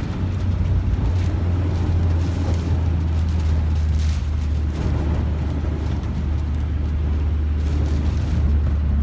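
Typhoon-force wind and a moving car together: a loud, steady low rumble with gusty hissing swells now and then.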